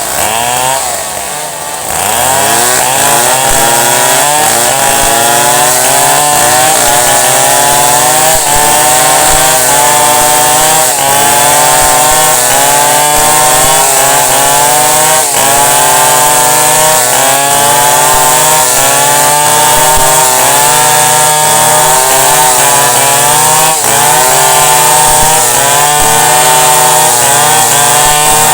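Two-stroke chainsaw cutting into wood, its engine pitch repeatedly sagging under load and recovering. Near the start the engine drops back to a lower speed, then revs up again about two seconds in.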